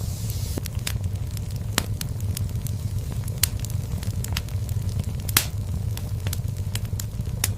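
Fireplace fire crackling: scattered sharp pops over a steady low rumble of the flames, with a brief hiss in the first second and the loudest pop about five seconds in.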